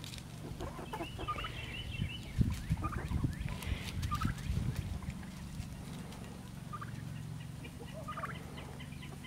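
Chickens calling: short, scattered squawks and a chirping trill or two, over a low steady hum.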